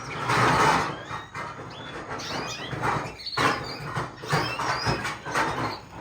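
Many caged canaries chirping and calling at once, short twittering notes overlapping throughout, with a few louder noisy rustles mixed in.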